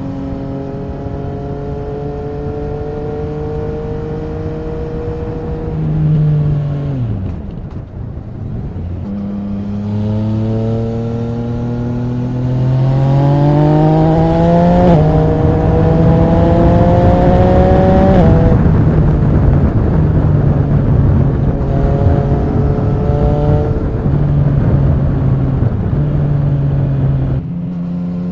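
Yamaha MT-09 SP's 847 cc inline-three engine through an Akrapovic Racing exhaust, recorded on the moving bike. Revs hold, then fall off about six seconds in; from about nine seconds the engine accelerates hard, with an upshift around fifteen seconds and revs climbing until about eighteen seconds, then it drops back to a steadier run.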